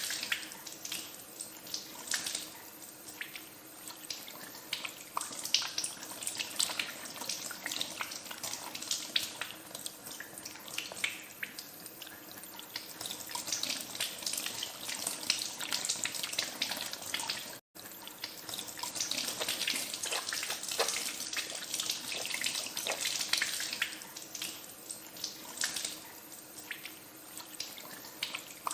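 Hands being washed under a running tap, water splashing into a sink with many small irregular splashes. The sound cuts out for an instant about two-thirds of the way through.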